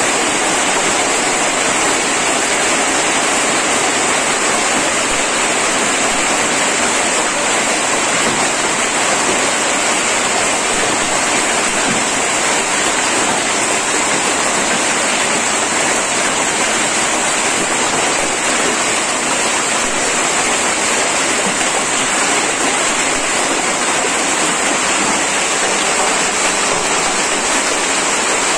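Heavy rain mixed with hail pouring down onto concrete and walls in a dense, steady, loud hiss, with water running off the surfaces.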